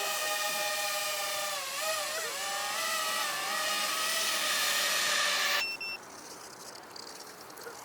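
Electric motors and propellers of a radio-controlled aircraft whining at a steady high pitch, the pitch dipping and wavering briefly about two seconds in. The whine cuts off abruptly a little past halfway, leaving a much quieter background.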